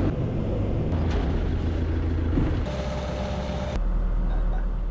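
Diesel engines of heavy earthmoving equipment running, the sound changing abruptly about one, two and a half and nearly four seconds in as short clips are cut together.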